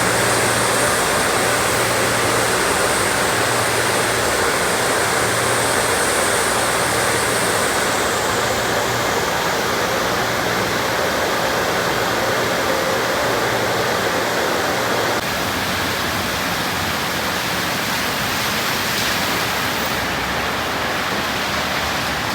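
Steady rush of water spraying from car wash tunnel arches. A high hiss fades out about a third of the way through, and the sound drops a little past the middle.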